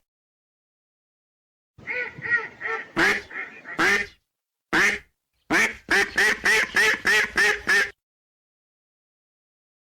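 Ducks quacking in fast runs of short calls, beginning about two seconds in and cutting off abruptly near eight seconds.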